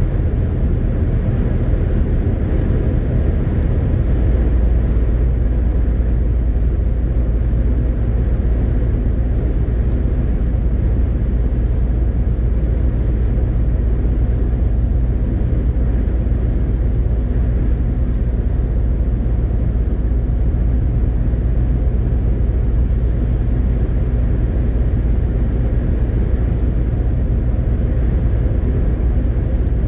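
MAN TGX 18.520 truck's six-cylinder diesel engine and tyre noise while driving, a steady low drone. The lowest part of the drone grows stronger about four seconds in.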